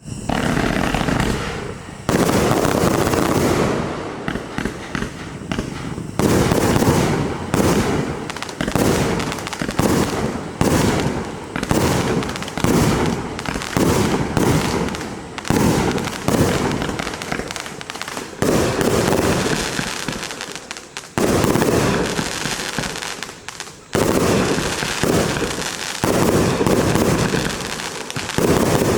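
Compound fireworks cake of 25 and 30 mm tubes firing rapid volleys of shots and bursts. The shots come in waves that start again abruptly several times.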